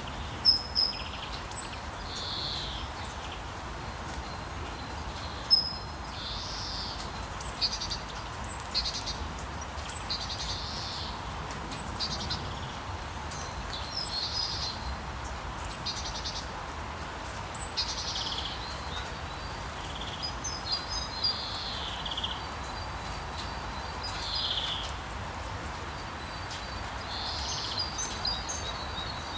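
Several birds chirping and calling in short, scattered phrases over a steady background hiss.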